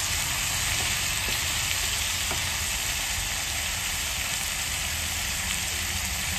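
Chicken pieces and vegetables sizzling steadily in a nonstick frying pan, with a few faint clicks in the first few seconds.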